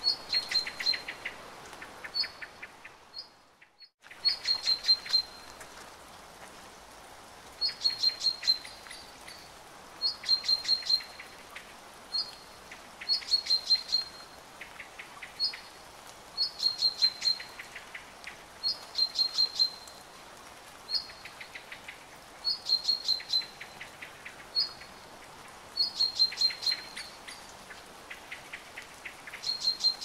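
A songbird repeating a short phrase every two to three seconds, a high note then a quick run of lower notes, over a steady hiss of rain. About four seconds in, the sound dips briefly to near silence and comes back.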